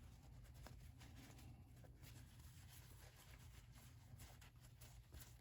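Near silence: a low steady hum with faint light scratching and small taps, as excess paint is wiped off a small brass game piece with isopropyl alcohol.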